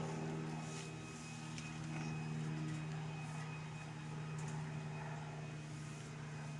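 A steady low motor hum runs throughout, holding one pitch.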